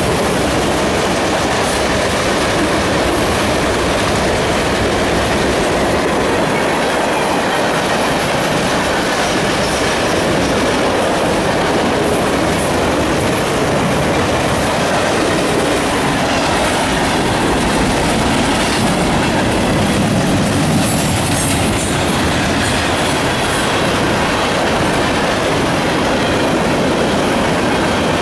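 Freight train cars rolling past at close range: a steady, loud noise of steel wheels running on the rails.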